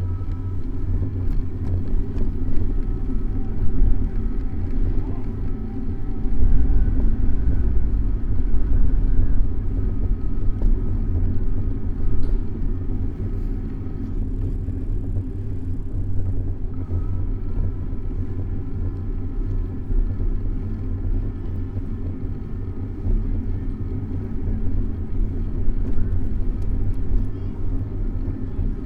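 Steady low rumble of wind and road noise on a bicycle-mounted camera while riding, with passing traffic mixed in.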